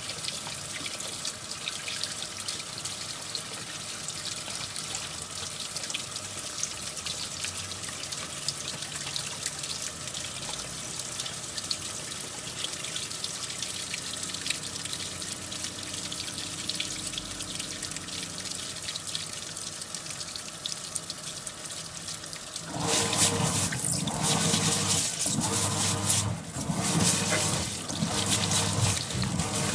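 SANYO sneaker washing machine taking in water: a steady running-water hiss. About 23 seconds in, a much louder rumbling, churning mechanical noise starts and surges unevenly.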